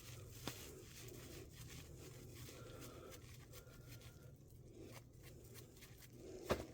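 Quiet room tone with a few faint handling clicks, one a little louder near the end.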